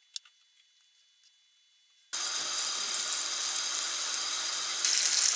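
Near silence broken by one sharp click, then about two seconds in, flour-dredged liver pieces frying in oil in a pan start sizzling steadily, the sizzle getting louder near the end.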